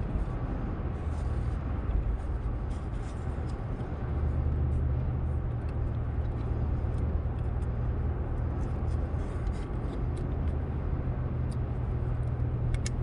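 Steady road and engine rumble inside a moving car's cabin, with a few faint ticks.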